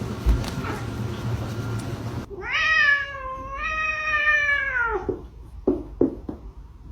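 A cat's long, drawn-out meow lasting about three seconds, wavering in pitch and falling away at the end, followed by a few short sounds. Before the meow there is a low hum and background noise.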